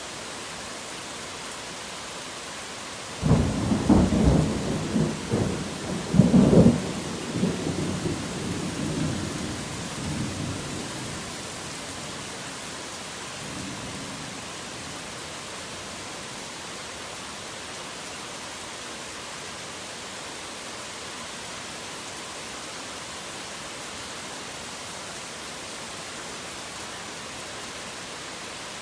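Heavy rain falling steadily, with a thunderclap about three seconds in: two loud cracks followed by rumbling that fades over several seconds, then a faint further rumble.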